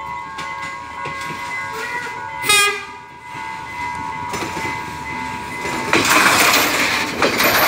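Sri Lanka Railways S8 diesel multiple unit approaching and passing close by. A steady chord of horn tones sounds for the first four seconds or so, broken by a short loud blast about two and a half seconds in. From about six seconds in the loud rumble of the train running past takes over.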